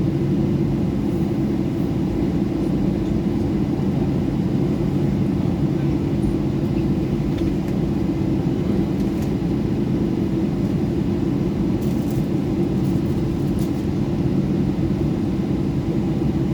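Boeing 737-800's CFM56 jet engines running, heard inside the cabin as a steady, loud low rumble with a hum.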